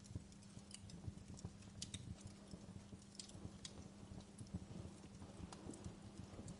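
Wood fire crackling in a fireplace: faint, irregular pops and snaps over a low rumble, with a steady low hum underneath.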